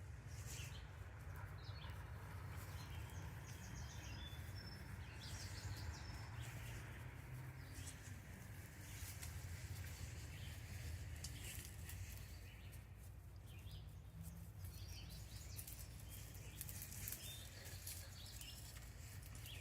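Faint outdoor ambience: a steady low rumble, scattered short bird chirps and light rustling.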